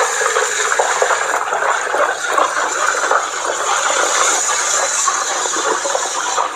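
Steam wand of a commercial electric tea and coffee machine hissing steadily into a jug, mixing and heating the tea leaves, sugar and water.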